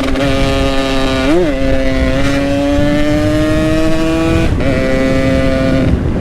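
Yamaha RX-King 135 cc single-cylinder two-stroke with an aftermarket Boban exhaust, running under way. The throttle blips quickly about a second in, then the engine note climbs steadily. It breaks briefly about four and a half seconds in and comes back lower, with a low wind rumble underneath.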